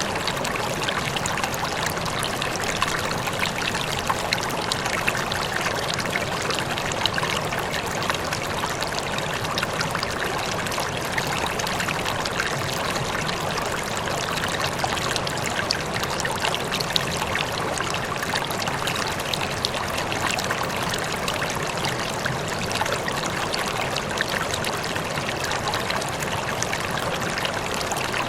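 Water running steadily, a stream or small cascade trickling and splashing without change.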